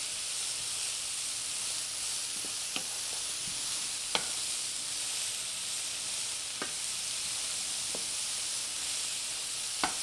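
Onions, bell peppers, mushrooms and black beans sizzling steadily in a hot skillet as a wooden spoon stirs them, with a few light knocks of the spoon against the pan.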